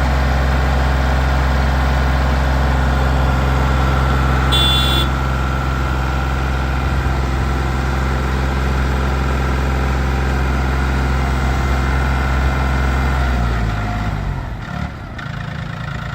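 Mahindra 1635 tractor's three-cylinder diesel engine idling steadily, with a brief high chirp about five seconds in. Near the end the engine note drops and slows down, as when it is throttled back or shut off.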